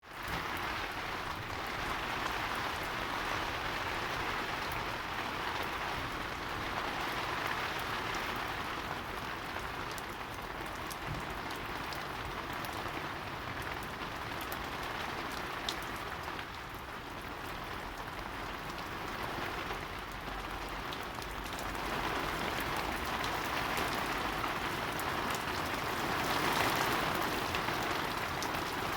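Heavy rain falling steadily, a dense hiss of drops on hard surfaces that swells and eases every few seconds.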